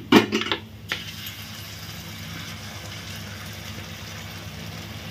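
Shredded vegetables frying in a steel wok on a gas stove: a steady sizzling hiss over a low hum, with a short knock about a second in.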